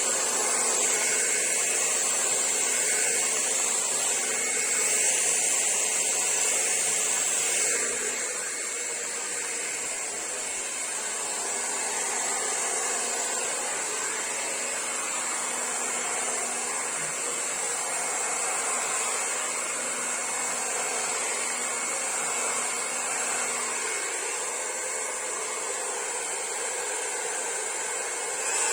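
Handheld hair dryer running continuously, a steady rush of air with a high-pitched whine over it, blowing poured acrylic paint across a canvas. It drops slightly in level about eight seconds in.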